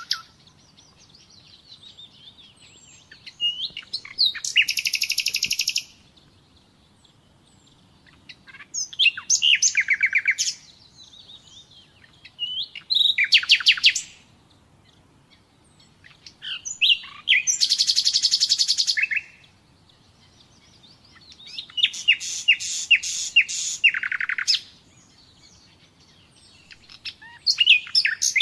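Common nightingale singing: six separate phrases of rapid repeated high notes and trills, each lasting one to three seconds, with pauses of about two seconds between them.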